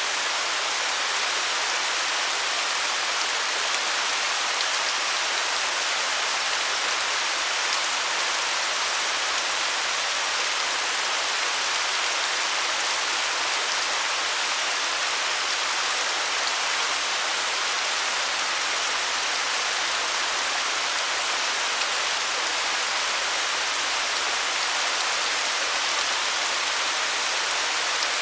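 Waterfall: falling water rushing steadily as a dense, even hiss, with little low rumble.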